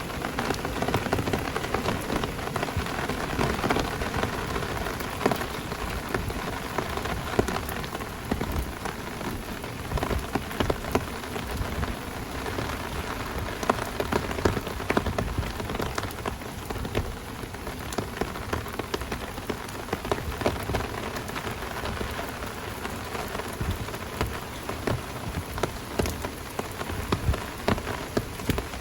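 Heavy downpour rain pouring steadily, with many sharp, close drop hits scattered through it.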